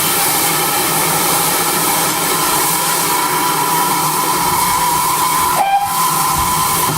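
Steam escaping from GWR 5600 class 0-6-2 tank locomotive 6695: a loud, steady hiss with a faint held tone in it, broken briefly about five and a half seconds in.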